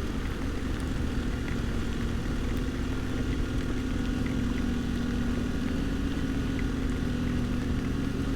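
Adventure motorcycle engine running steadily at low speed on a dirt road, its pitch holding even with no revving.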